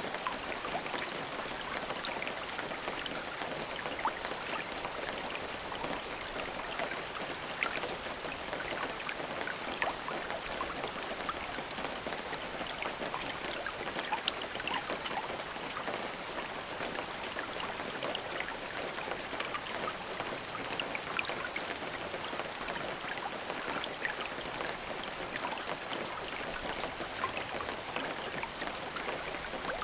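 Steady rain falling, with a dense patter of individual drop ticks over an even hiss.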